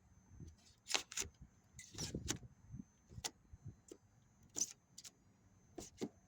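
Irregular scrapes and sharp clicks of a hand tool cutting and prying rigid foam insulation out of a refrigerator cabinet, about a dozen short strokes.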